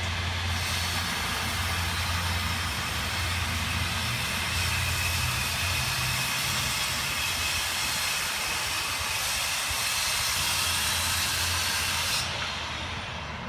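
Power bandsaw running steadily, a loud motor hum with a hiss over it; the hiss cuts off about twelve seconds in and a quieter hum goes on.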